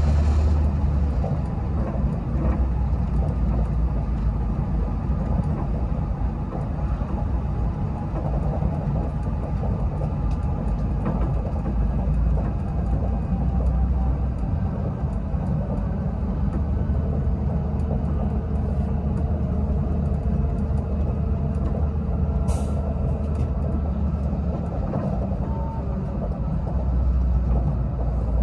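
Passenger train running at speed, heard from inside the coach: a steady low rumble of wheels on track with faint scattered clicks. A brief hiss comes about three-quarters of the way through.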